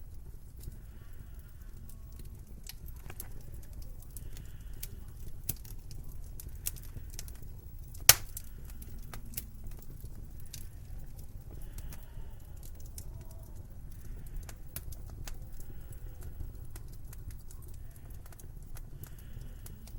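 Wood fire in a fireplace crackling, with irregular sharp pops, one much louder pop about eight seconds in, over a low steady rumble.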